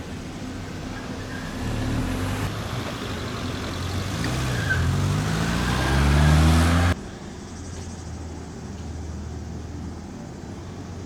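A motor vehicle's engine accelerating close by, rising in pitch and getting louder until it cuts off abruptly about seven seconds in. A quieter steady low hum follows.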